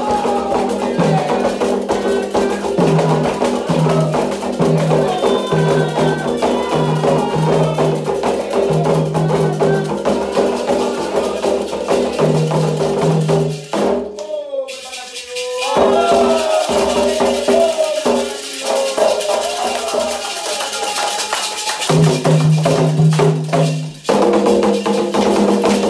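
Candomblé toque for Ogum: atabaque hand drums and a sharp struck percussion timeline, with voices singing over them. The drums drop out for about two seconds midway, then come back in.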